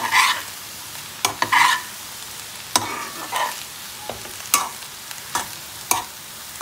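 Metal slotted spatula turning cooked rice in a non-stick kadai, mixing lemon rice. Short scraping swishes of rice come every second or two, with six sharp taps of the spatula against the pan.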